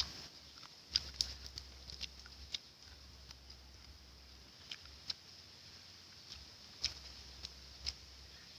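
Scattered light clicks and taps, about a dozen at uneven intervals, with the sharpest one right at the start and a cluster about a second in.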